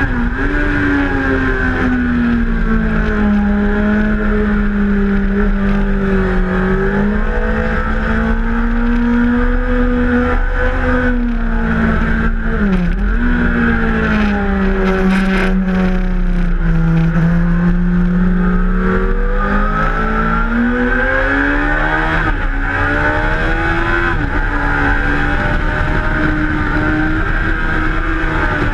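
Suzuki GSX-R1000 inline-four engine running hard, heard from a camera mounted on the bike, with wind noise. The engine note sinks slowly through the middle and climbs again, with a brief dip about halfway and another near the end.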